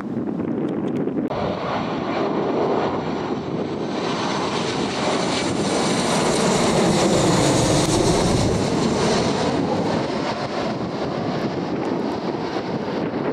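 Airliner jet engines passing close by, a loud rush with a high whine that comes in abruptly about a second in, swells to a peak around the middle, then eases off a little. Wind buffets the microphone.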